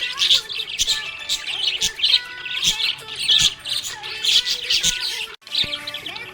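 Budgerigars chirping and warbling, a dense run of rapid high chirps with a momentary break about five seconds in.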